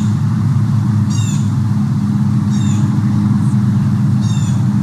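A bird giving four short, high chirps that sweep downward, over a steady low mechanical hum like an idling engine.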